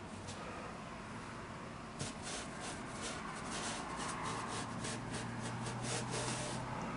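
Paintbrush strokes on watercolour paper: a run of short, quick, scratchy dabs starting about two seconds in.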